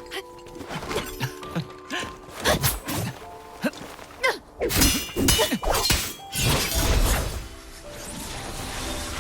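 Soundtrack effects: a rapid run of sharp metallic clangs, dings and hits with whooshes, loudest in the middle, between stretches of soft sustained music.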